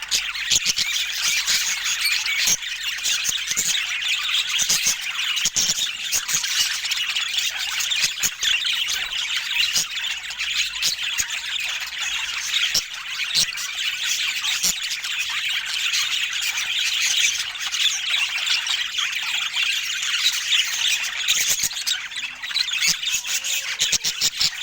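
A flock of budgerigars chattering, with many overlapping squawks, chirps and warbles.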